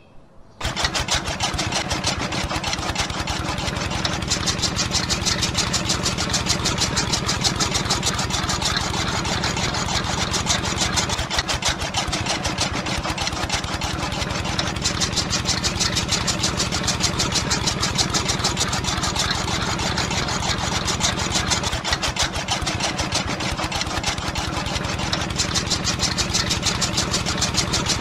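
Miniature model chaff cutter's small electric motor switched on, starting abruptly about half a second in, then running steadily with a fast, even ticking rattle as its flywheel spins.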